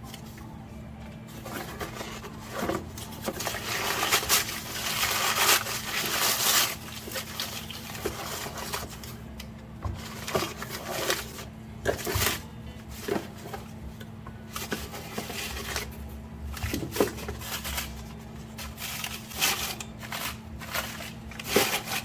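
Irregular rustling, light clicks and knocks of a polyurethane bushing kit's parts and packaging being handled, over a steady low hum.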